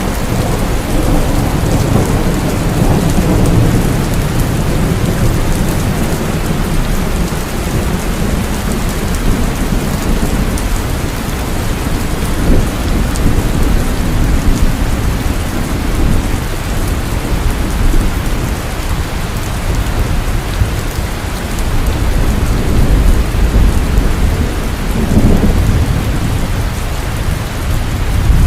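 Heavy rain falling steadily, with deep rolling thunder rumbling underneath, swelling about two to four seconds in and again near the end.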